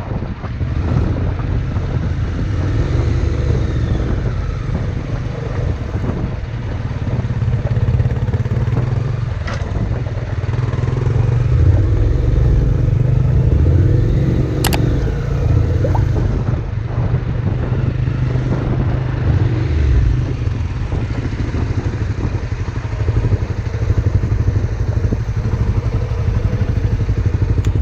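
Honda NC700's parallel-twin engine running on the move, its pitch rising and falling with speed, over a steady rush of wind and road noise. Two sharp clicks are heard about a third and about halfway through.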